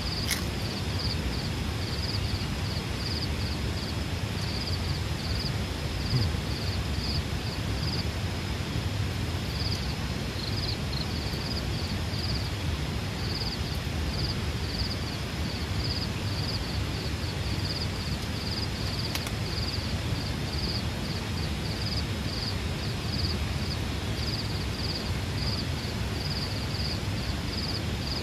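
Steady rain noise with insects trilling in short pulses about three times a second, pausing briefly now and then.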